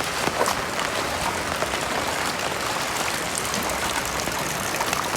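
Heavy rain falling steadily, a dense hiss scattered with the ticks of individual drops striking surfaces.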